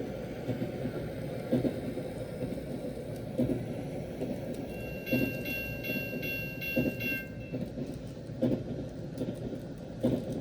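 Recorded sound of a passenger train in motion heard from on board, played from a KATO sound card: a steady low running rumble with irregular rail-joint clicks. About halfway through, a rapid repeating ringing tone sounds for about two seconds.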